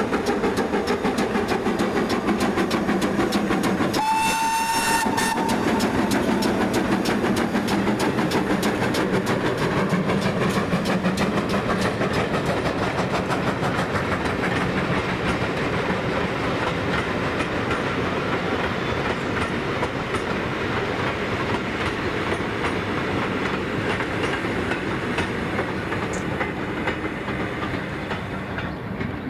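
Steam locomotive running past with a rapid, even rhythm of beats. Its whistle sounds once about four seconds in, for about a second and a half. The sound slowly fades toward the end as the train draws away.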